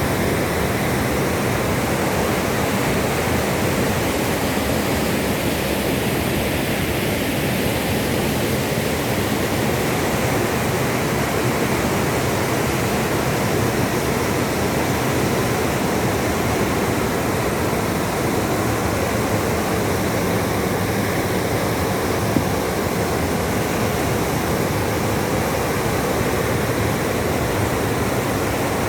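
Waterfall on a river, water rushing in a loud, steady, unbroken wash of noise.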